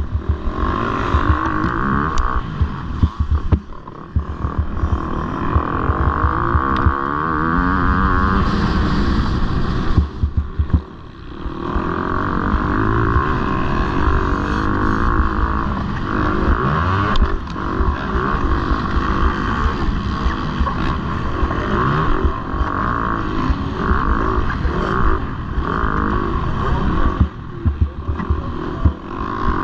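MX2 motocross bikes racing, engines revving hard and falling off again and again as the riders work the throttle, with a brief drop in engine noise about eleven seconds in.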